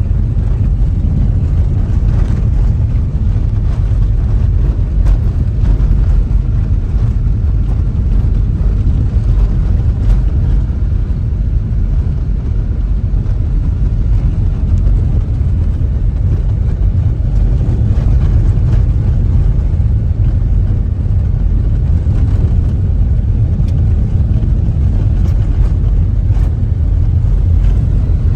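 Steady low rumble of a car driving along an unpaved construction stretch of road: tyre and road noise.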